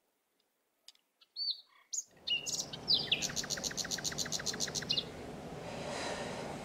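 Birds chirping: a few scattered high chirps, then a fast run of about a dozen repeated notes, over a steady background hiss.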